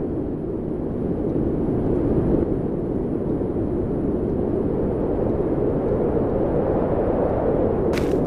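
Strong cyclone wind blowing hard and without a break, a low rushing roar.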